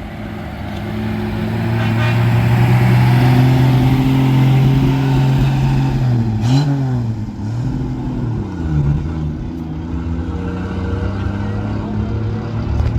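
A vehicle engine running close by, growing louder over the first few seconds, with a brief rev about halfway through and a couple of smaller rises and falls in pitch after it.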